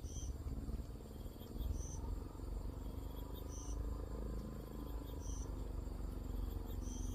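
An insect, cricket-like, giving short high chirps that repeat about every one and a half to two seconds, over a steady low rumble.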